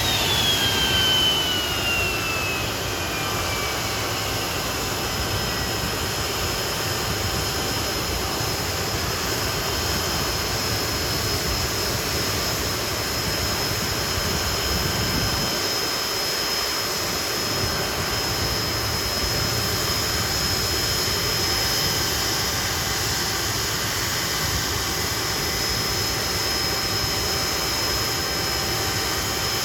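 Jet engines of a Nimrod, Rolls-Royce Spey turbofans, running steadily with a high whine over a broad rushing noise. The whine falls in pitch over the first few seconds as the engines throttle back, then holds steady.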